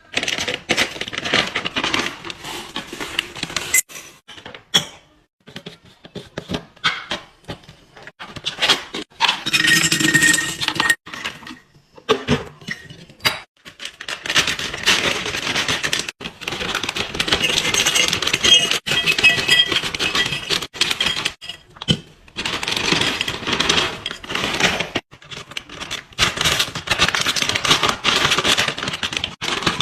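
Containers and packaging being handled and set down while a refrigerator is stocked: a steady run of clicks, knocks and clinks over rustling, with a few brief ringing clinks.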